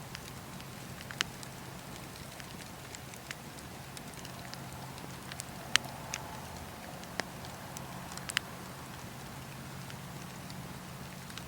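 Campfire crackling: a steady hiss of burning wood with sharp pops scattered irregularly, the loudest about halfway through, over a low steady hum.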